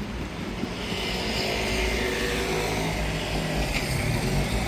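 A motor vehicle's engine running close by in the street, growing louder over the first second or two and then holding steady.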